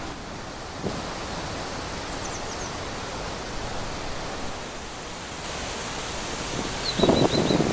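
Steady wind blowing through trees, with a louder gust near the end. A few faint high chirps come through about two seconds in and again near the end.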